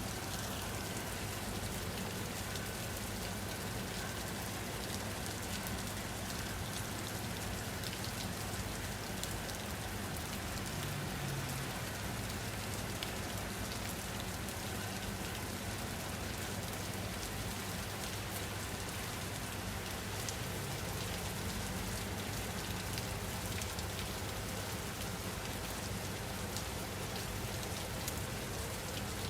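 Steady rain falling on a surface, with scattered drop ticks over an even hiss.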